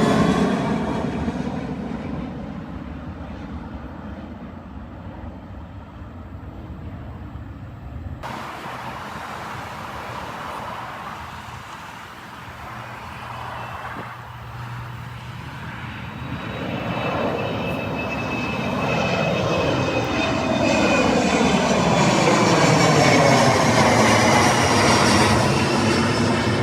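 Jet airliner's engines heard from below as it flies low overhead. One engine sound fades over the first few seconds; then another builds from about two-thirds of the way in, with sweeping shifts in tone and a falling high whine as the jet passes.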